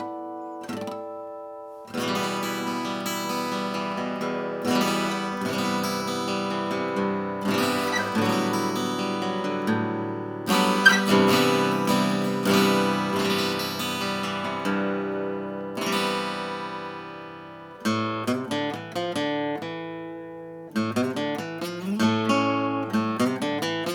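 Vintage Japanese acoustic guitar played solo: strummed chords, each left to ring and fade, the loudest about eleven seconds in. Toward the end it turns to quicker picked notes.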